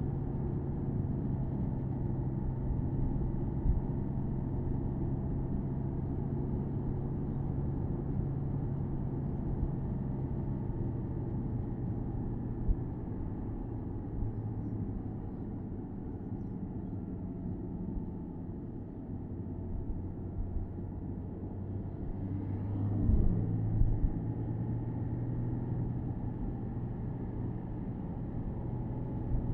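Porsche Boxster S 987.2's 3.4-litre flat-six running at steady cruising revs under road and wind noise, heard from the open-top cabin. The engine note settles lower about twelve seconds in, and near three-quarters of the way through it glides briefly with a short rise in loudness, as with a change in revs.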